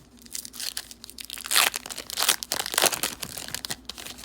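Wrapper of a 2013 Topps football card pack being torn open and crinkled, in a run of sharp crackles that is loudest in the middle.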